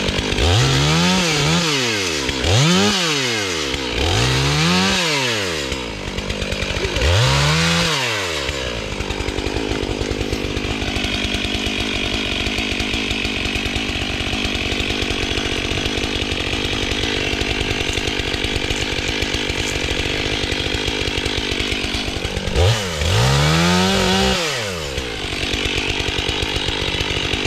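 Stihl 500i chainsaw's two-stroke engine revved in four quick surges, the pitch climbing and dropping each time, then idling steadily for about thirteen seconds before one more rev near the end and a return to idle.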